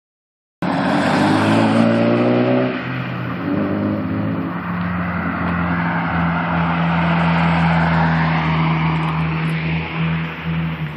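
Borla exhaust on a Mk2 Volkswagen Jetta's ABA 2.0-litre four-cylinder engine. The engine speed climbs twice in the first few seconds, dropping back after each, then holds steady and loud.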